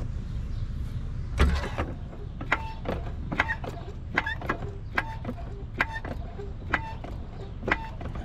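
Car jack being worked to raise the car. A louder knock comes about a second and a half in, then sharp metallic clicks, each with a short ring, come in a steady rhythm about once a second.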